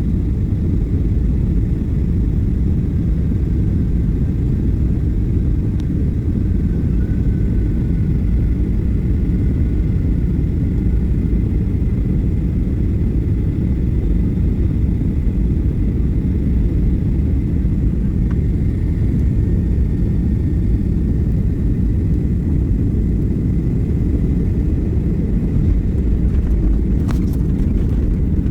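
Jet airliner cabin noise during landing: a loud, steady, low rumble, with a few brief clicks near the end.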